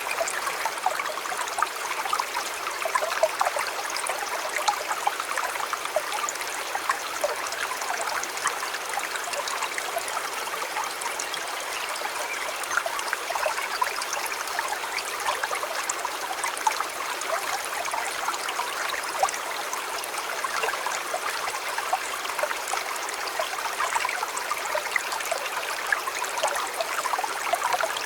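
River or stream flowing steadily, with a busy babble of small splashes and trickles.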